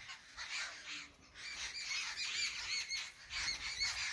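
A flock of jungle babblers calling together: a busy chattering chorus of quick, squeaky, rising-and-falling notes. It grows denser about a second and a half in.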